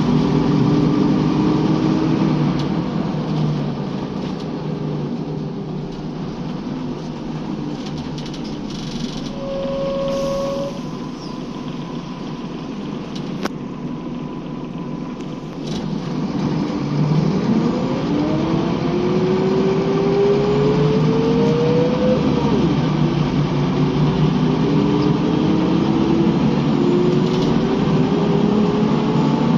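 Scania L94UB bus engine running under way. It eases off through the first half, then accelerates from about two-thirds of the way in, its pitch rising, dropping once as the automatic gearbox shifts up, and rising again. A brief high tone sounds about ten seconds in.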